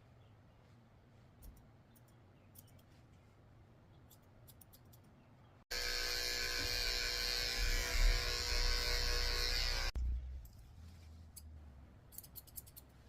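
Faint snipping of grooming shears, then a little under six seconds in electric dog clippers start, run with a loud steady buzz for about four seconds and cut off suddenly; faint snipping returns near the end.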